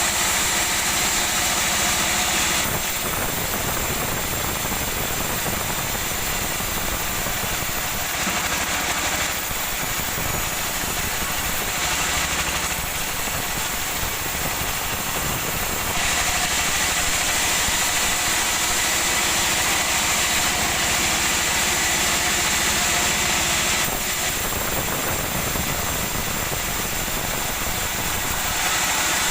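Sawmill machinery running steadily, its tone shifting several times as the work changes.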